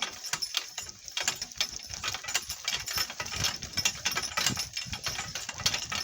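Donkey cart rattling and clattering as it jolts over rough, bumpy ground: a dense, irregular run of knocks and clicks.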